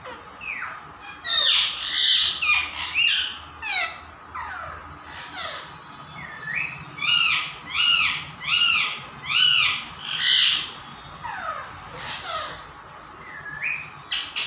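Parrot calling: a flurry of quick falling squawks, then a run of about five loud, evenly spaced calls in the middle, with scattered single calls near the end.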